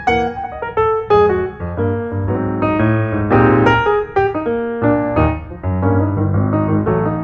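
Background piano music: a steady run of notes over a low bass line.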